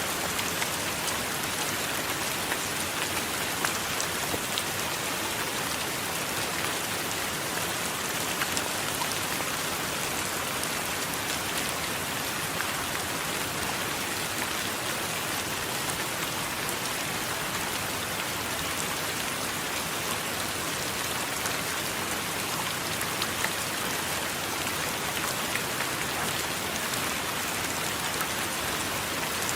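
Steady heavy rain falling on a surface, an even hiss with scattered louder drop ticks.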